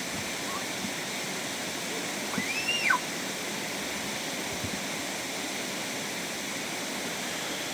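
Steady rush of flowing water. About two and a half seconds in, a single short high call rises and falls over it.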